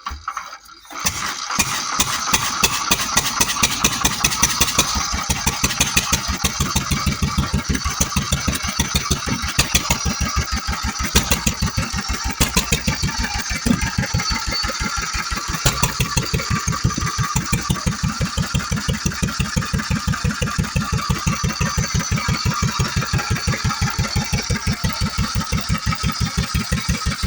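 1935 Bernard C3 17 cv engine starting about a second in, then running steadily at idle with evenly spaced firing beats.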